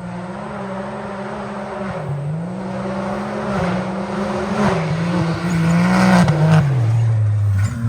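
Can-Am Maverick X3 UTV's turbocharged three-cylinder engine under hard throttle on a hill-climb run. The revs climb, dip briefly and climb again several times, then fall off near the end.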